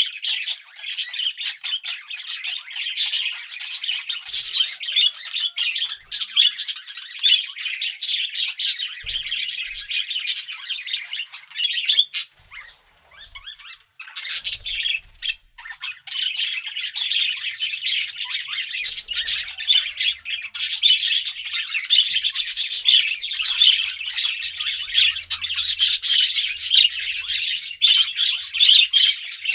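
Several budgerigars chirping, a dense stream of quick high calls, dropping out briefly about halfway through.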